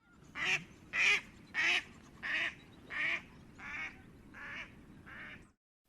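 Duck quacking: eight quacks about two-thirds of a second apart, growing a little fainter toward the end.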